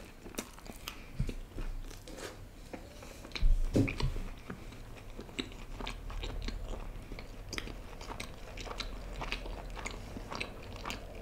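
Close-miked chewing of a mouthful of mutton curry eaten by hand: a run of small wet smacks and clicks, loudest for a moment about three and a half seconds in.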